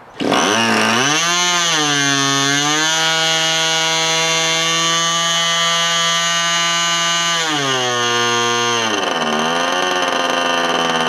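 OS .46AX two-stroke glow (nitro) model airplane engine bursting into life and running at a high, buzzing speed. Its pitch climbs, holds steady for a few seconds, then sags near the end and picks back up. The engine is running unevenly, which the owner puts down to old gummy residue inside after years unused.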